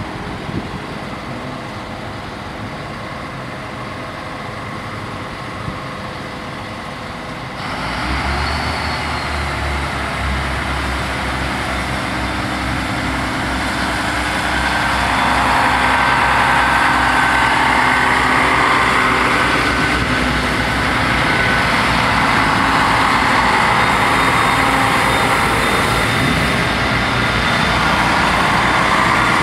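Level-crossing warning bell ringing with the barriers down, then a single-car TER diesel railcar (SNCF X 73500 type) comes in suddenly about eight seconds in and grows louder as it runs across the crossing, its wheels and engine making a steady rushing noise.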